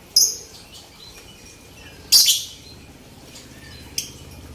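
Cage birds giving short, sharp, high chirps, three in all, the loudest about two seconds in.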